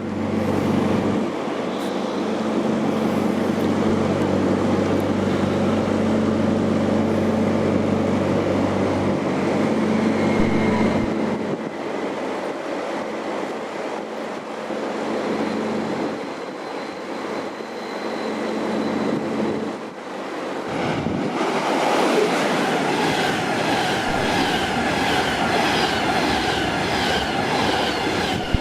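A train passing through the station. For the first half it gives a steady low hum; about two-thirds of the way in the sound changes to a rhythmic clatter of wheels over the rails.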